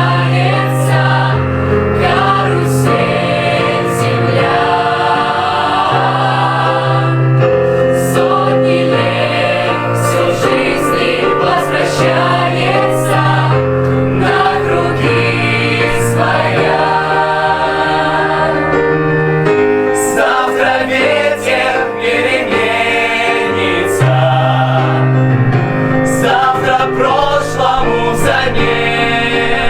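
A vocal group singing the song together in chorus with piano accompaniment, voices held on long notes with vibrato over steady piano chords.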